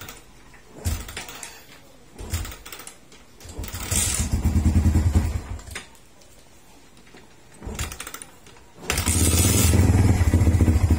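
Motorcycle engine being started again and again: short cranking bursts, then it catches and runs for about two seconds before dying, and catches again near the end. The hard starting and stalling persist with a new tri-electrode spark plug, which the owner puts down to the carburetor needing tuning rather than the plug.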